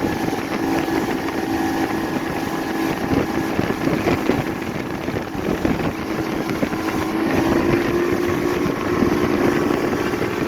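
Motorboat engine running steadily under way, with wind buffeting the microphone and water rushing.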